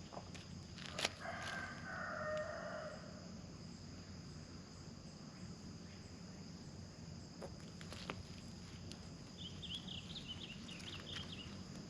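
A rooster crows once, about a second in, just after a sharp knock. Small birds chirp near the end.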